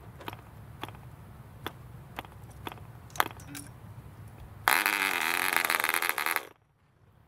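Barbini B.38 1cc model diesel engine being hand-started: sharp clicks about twice a second as the propeller is flicked, then the engine catches and runs with an uneven, wavering pitch for under two seconds before cutting out abruptly. The uneven running is typical of a new, not yet broken-in engine.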